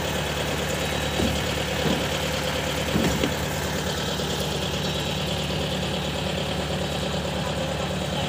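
Farm machinery engine running steadily at a constant speed, with a few brief thumps about one, two and three seconds in.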